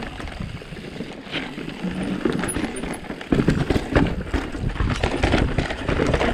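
E-bike rattling and clinking as it is ridden over a rough trail, with a low rumble that sets in and grows loud about three seconds in.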